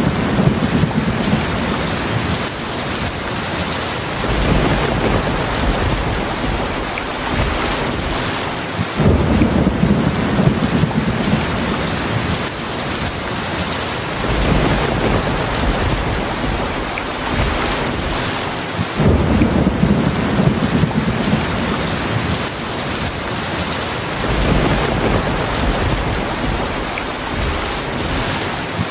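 Heavy rain falling steadily, with low rolling thunder rumbling underneath. A fresh, stronger roll of thunder comes in about every ten seconds.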